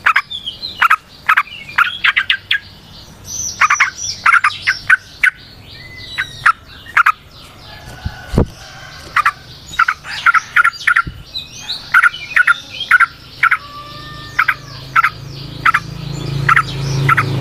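Yellow-vented bulbuls (trucukan) calling in quick runs of short, sharp chattering notes, with a few gliding whistles between them. A low hum builds near the end.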